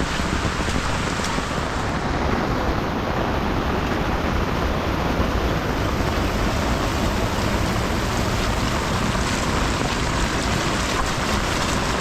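Heavy rain falling steadily, a dense, even hiss with scattered drop ticks.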